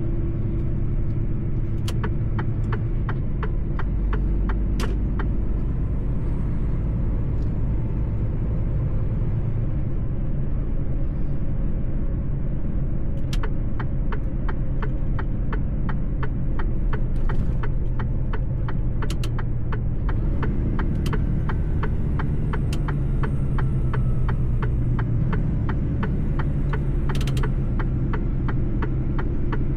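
Mercedes-Benz truck engine running steadily at a low rumble while driving, with a run of sharp, evenly spaced clicks at about two a second through the middle.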